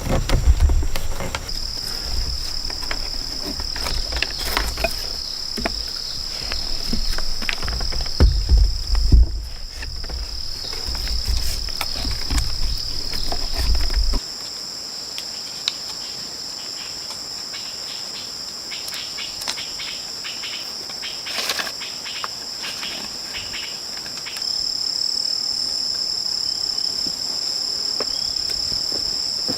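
Steady, high-pitched chorus of rainforest insects, with scattered clicks and knocks over it. A low rumble runs under the first half and stops abruptly about halfway through.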